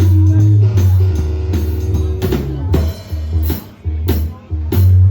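Live blues band playing: a drum kit with regular kick and cymbal hits over a prominent bass line, with guitar.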